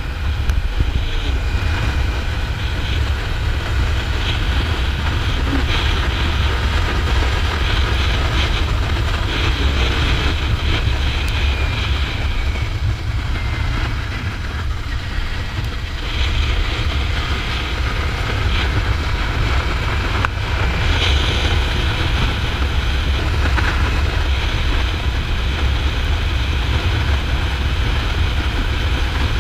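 Wind buffeting the microphone of a Kawasaki Ninja 400 at riding speed, with the bike's parallel-twin engine running underneath; it eases off a little about halfway through.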